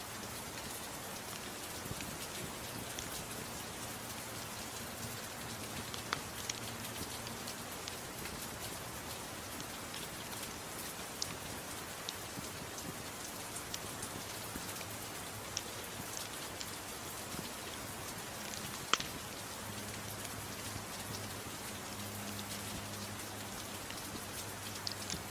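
Steady rain, an even hiss, mixed with a crackling wood fire: scattered sharp pops, one louder than the rest about three-quarters of the way through.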